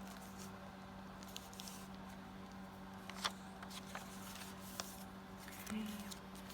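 Faint rustling and a few light clicks of paper craft pieces being handled, over a steady low hum.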